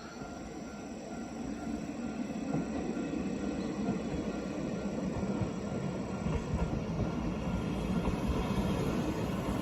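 Electric train approaching and running past: a rumble that builds over the first three seconds, then holds steady.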